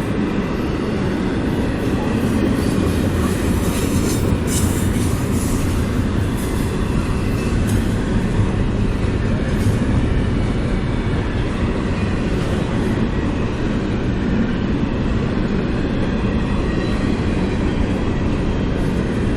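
CSX train's cars rolling past at close range: a steady rumble of wheels on rail with a few sharper clacks about four to five seconds in.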